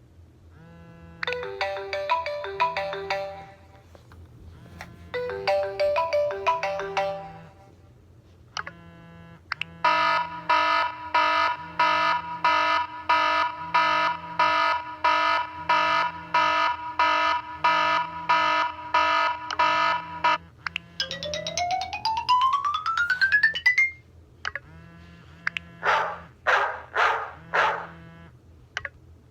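iPhone 3GS built-in ringtones played through the phone's speaker one after another: a marimba melody played twice, a fast pulsing alarm tone for about ten seconds, a rising sweep of tones, then four short barks.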